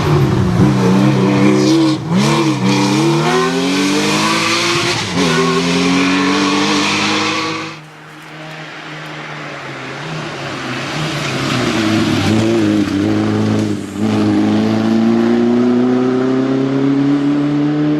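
Historic rally car engines revving hard, their pitch climbing and dropping back with each gear change. The sound cuts off abruptly about eight seconds in, then another car's engine builds and rises steadily near the end.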